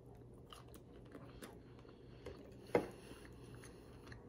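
Faint chewing of a mouthful of shrimp, with small wet mouth clicks and one sharper click a little under three seconds in.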